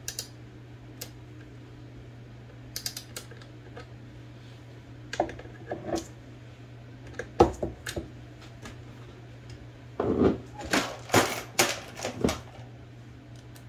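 Scattered metallic clicks and clinks of small hand tools against a typewriter's metal parts, with a sharp knock about seven seconds in and a quick run of clicks near the end, over a faint steady hum.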